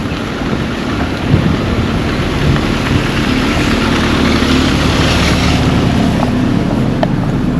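A motor vehicle's engine running as it passes close by, growing louder to a peak about five seconds in and then easing slightly.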